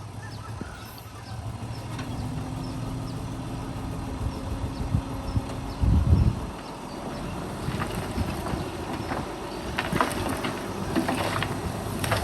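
Heavy diesel machinery running with a steady low engine hum. There is a loud low thump about six seconds in, and metallic clanks and rattles follow through the later part.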